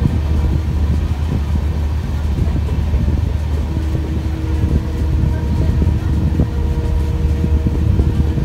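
Express train coaches running at speed on a curve, heard from an open coach door: a loud, steady low rumble of wheels on rail with a dense rattle of clicks. A steady tone joins about halfway.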